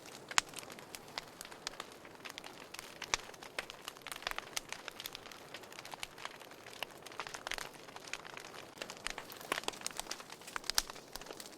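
Wood fire burning in a fireplace, crackling and popping irregularly over a soft hiss, with a few sharper pops.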